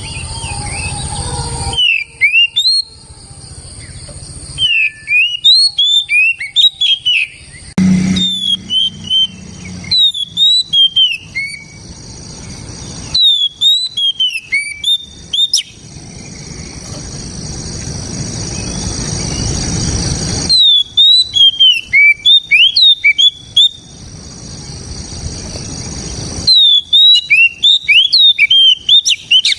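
Oriental magpie-robin (kacer) singing in about six short, loud bursts of rapid, sharp whistled notes that glide up and down, with pauses between the phrases. In the pauses a steady high hiss swells.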